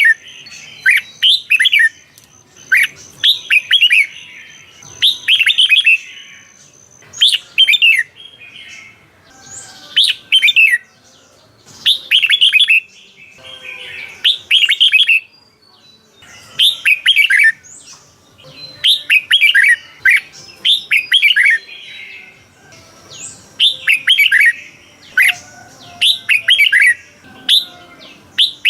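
Red-whiskered bulbul singing: short, bright phrases of quick falling notes, repeated every second or two.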